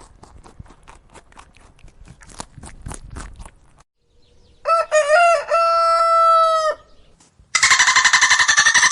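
A rooster crowing once, about halfway in: a few short broken notes, then a long held note. It is preceded by a run of faint rapid clicks. Near the end a loud, rapidly pulsing animal call follows.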